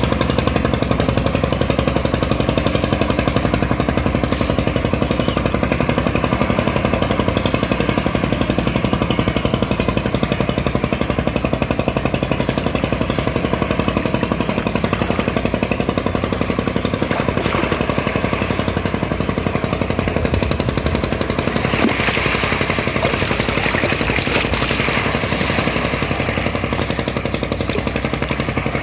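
Ferry boat's engine running steadily with a fast, even clatter. About three quarters of the way in, a broad hiss grows louder over it.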